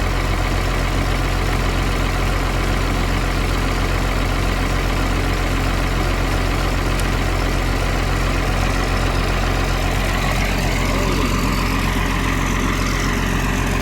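Diesel engine of a logging processor idling steadily, warming up after a cold start on a frozen morning.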